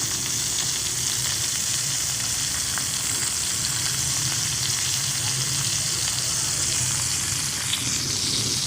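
Food sautéing in margarine in a frying pan, sizzling steadily.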